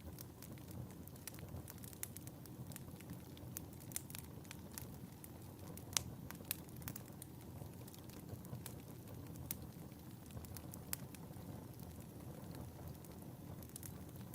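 Wood fire burning in a fireplace: a soft steady rumble of flames with frequent sharp pops and crackles, the loudest pop about six seconds in.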